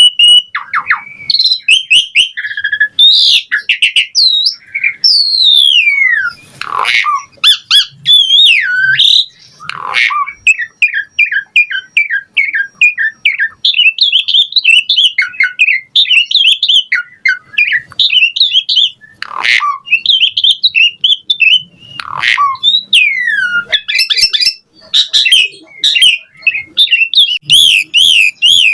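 Asian pied starling (jalak suren) singing a long, varied song. Clear whistles glide up and down, a fast run of short repeated notes comes near the middle, and several harsh, downward-sweeping squawks are mixed in.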